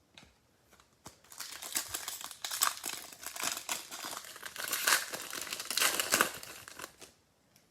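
Trading-card pack wrapper crinkling as a pack is torn open and handled, a dense crackle starting about a second in and stopping shortly before the end.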